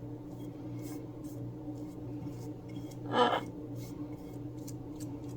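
A parrot gives one short squawk about three seconds in. Underneath are a steady low hum and faint, repeated scratchy strokes of a paintbrush spreading Mod Podge on paper.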